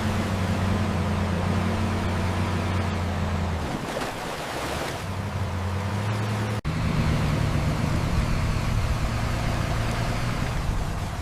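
Heavy dump truck's diesel engine running with a steady deep drone and a noisy wash over it; the note drops about four seconds in, then returns, and an abrupt break about two-thirds through gives way to another engine running.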